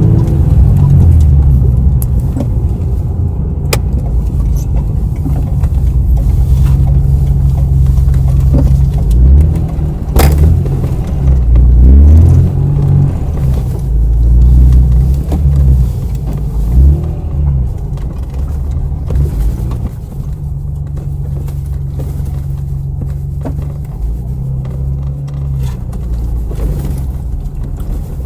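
Honda NSX's V6 engine with a titanium aftermarket exhaust, running with its pitch rising and falling as the car is driven. It settles to a quieter, steadier drone about two-thirds of the way through.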